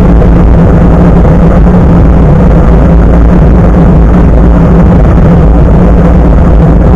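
Loud, steady rumble of wind buffeting and road noise from a bicycle riding along, picked up by a camera microphone mounted just above the front tyre.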